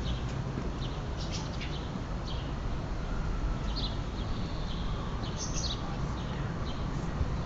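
Birds chirping outdoors: short, scattered high calls over a steady low rumble.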